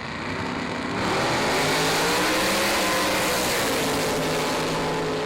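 Drag race cars launching and running at full throttle down the strip, very loud. The noise swells within the first second, and the engine pitch climbs and then drops away toward the end.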